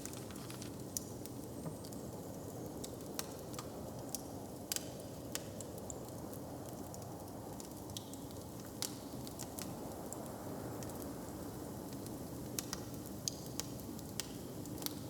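Log fire crackling, with sharp irregular pops and snaps over a steady low background hum.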